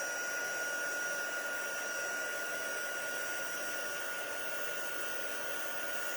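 Handheld embossing heat tool blowing steadily, a hair-dryer-like rush of air with a constant high motor whine, melting embossing powder on a card.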